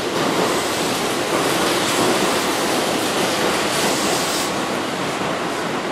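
Keihan 7200-series electric commuter train approaching over station pointwork: a steady rush of wheel-on-rail running noise, with a brief brighter hiss a little after the middle.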